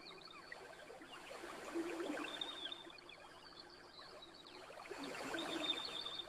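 Gentle ocean waves washing onto a beach, swelling twice, with a campfire crackling in many small pops throughout.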